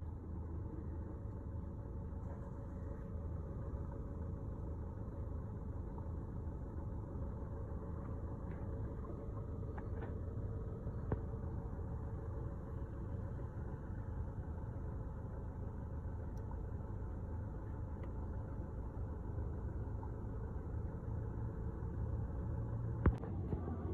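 An engine running steadily with a low rumble, with a couple of faint clicks.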